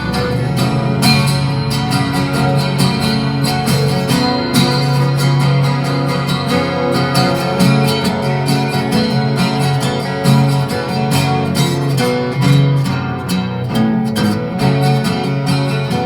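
Acoustic guitar strummed in a steady rhythm through an instrumental interlude between verses of a folk song.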